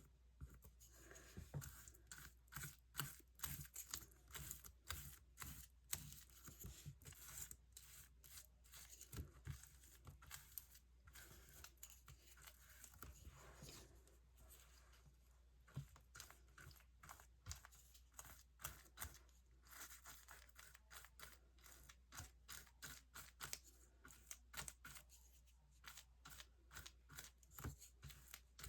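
Paper being worked by hand: many short, scratchy strokes and rustles on paper, coming in quick irregular runs.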